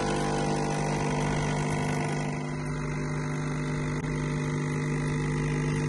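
An electric appliance motor running steadily: an even, low hum with a hiss over it.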